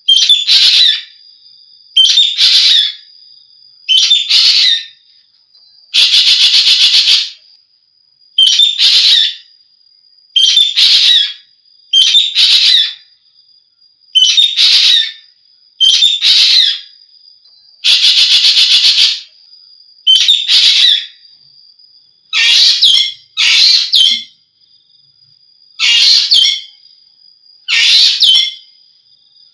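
Ekek geling bird calling over and over, a harsh call about every two seconds. Twice, about six seconds and eighteen seconds in, it gives a longer, rapidly pulsing rattle.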